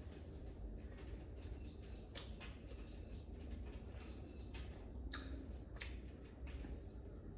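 Faint, irregular clicks and ticks over a low steady hum, a few sharper ones standing out.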